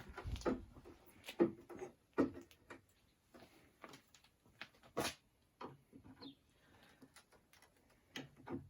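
Irregular knocks and clacks of wooden boards being handled and set down, the loudest about five seconds in.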